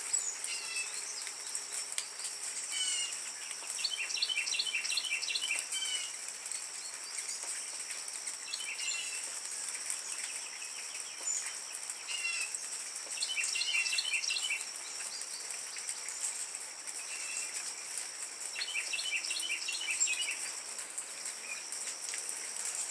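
Hummingbirds chittering: quick bursts of rapid high chips, three main runs with single chips between, over a steady high insect drone.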